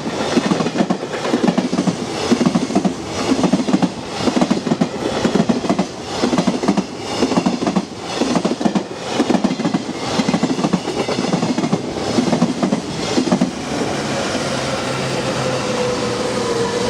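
A long freight train of container wagons running past, its wheels clacking over the rail joints in a steady rhythm of about two beats a second. Near the end the clacking gives way to a steadier rumble with a faint, slowly falling tone.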